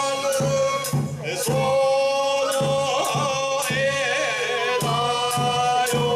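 Bangaku folk-theatre accompaniment music: long held melodic notes with many overtones over sharp percussive strikes that come in groups of two or three about half a second apart.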